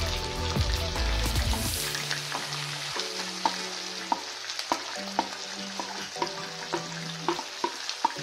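Chicken pieces sizzling in hot oil in a non-stick pan as chopped onion and ginger-garlic paste are scraped in off a plate with a wooden spoon, with many short sharp taps and spatters over the steady sizzle. A deep low rumble sounds in the first two seconds.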